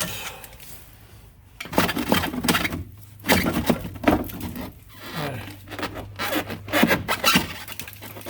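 Irregular bursts of metal scraping and knocking as an old, rusty rear strut is worked loose and pulled out of its knuckle, with a steady low hum joining about five seconds in.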